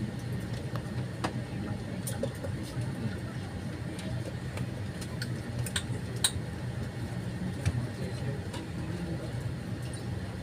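Steady low hum inside an Airbus A320-200 cabin, with scattered light clicks and knocks from around the cabin.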